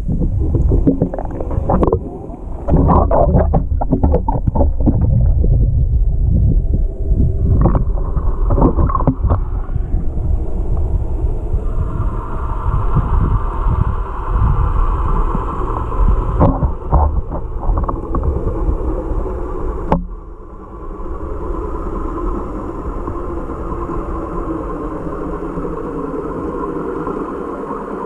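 Water sloshing and bubbling around a camera held underwater, heavy rumble with many knocks and clicks. From about halfway there is a steady droning hum, which changes abruptly about 20 seconds in and runs on more smoothly.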